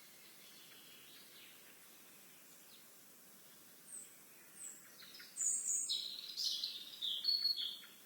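A songbird calling: two short, high chirps about four seconds in, then a quick run of high, chirpy song notes through the last couple of seconds, over a faint outdoor hiss.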